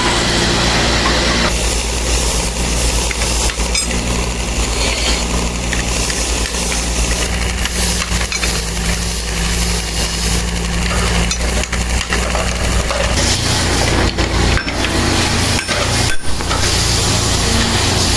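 Workshop machinery running steadily: a motor's low hum under a constant hiss, with abrupt changes in the sound at a few points.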